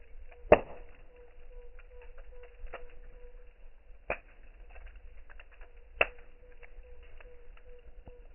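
Campfire crackling with many small snaps and three loud pops, about half a second, four seconds and six seconds in, over a faint steady hum and a low rumble.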